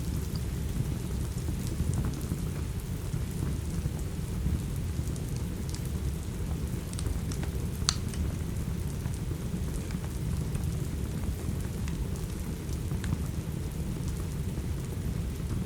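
Steady rain with a heavy low rumble underneath, and a fireplace's wood fire crackling, with scattered small pops and one sharper pop about eight seconds in.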